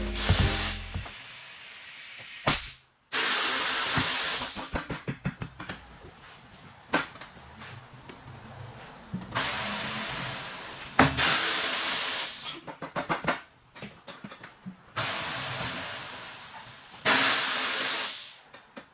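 Compressed air from an air hose hissing in bursts of one to two seconds, about five times, with small clicks and knocks between.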